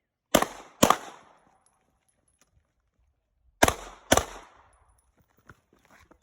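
Two pairs of gunshots from a firearm, each pair about half a second apart and the pairs about three seconds apart, each shot ringing out briefly: double-taps fired two rounds at a time in a drill.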